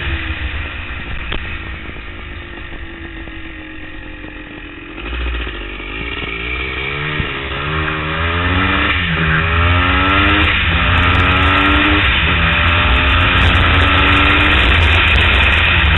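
CB490 motorcycle engine heard from the rider's seat. It is off the throttle and quieter at first, then accelerates through the gears. Its pitch climbs in steps, broken twice by upshifts, and it grows louder, with a low wind rumble on the microphone under it.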